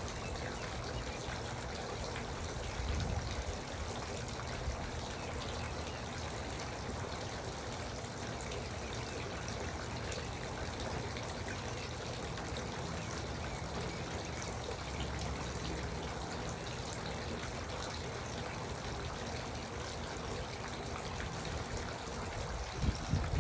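Garden water fountain: water trickling and splashing steadily.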